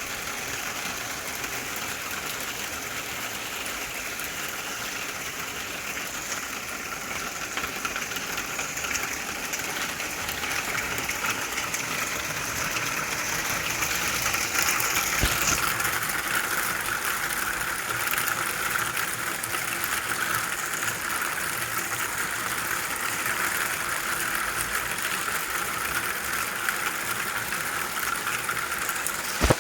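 Hail and rain coming down hard, a dense steady patter of hits on surfaces that grows heavier about halfway through. A sharper single knock stands out in the middle and another near the end.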